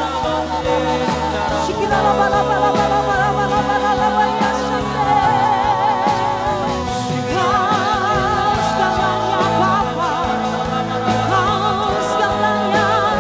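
Live contemporary worship music: a band playing sustained chords with a bass line under sung voices with vibrato.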